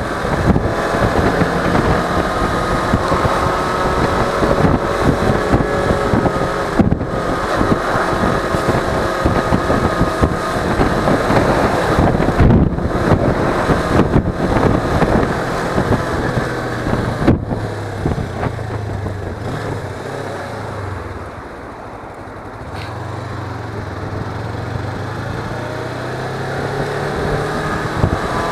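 Suzuki V-Strom 250 motorcycle engine under way, its note climbing and falling with the throttle and gear changes. A little past the middle it eases off to a quieter, low steady note for a few seconds, then picks up again near the end.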